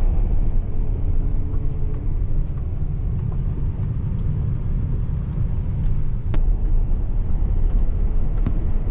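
Steady low rumble of a car driving, with faint engine tones early on and a single sharp click about six seconds in.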